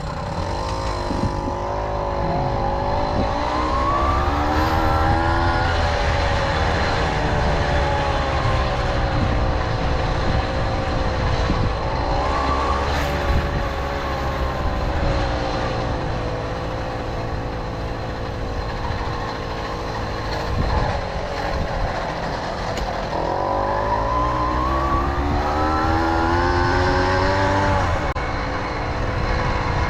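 Tomos Silver Bullet moped's small two-stroke engine running under way, revving up around the start and again near the end, with steadier running in between. A constant low wind rumble sits on the microphone.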